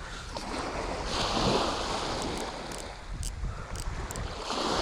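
Small waves washing in on a shallow beach, swelling about a second in and again near the end, with wind rumbling on the microphone.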